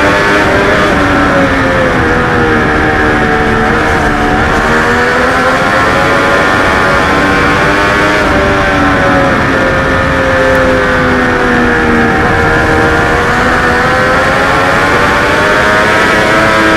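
Triumph Daytona 675R's three-cylinder race engine running hard, heard onboard over wind rush, its note falling and rising twice through the corners.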